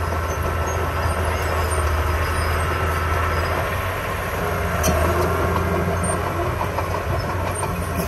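Diesel engine of heavy earthmoving machinery running steadily under work, with a deep low hum and a sharp click about five seconds in.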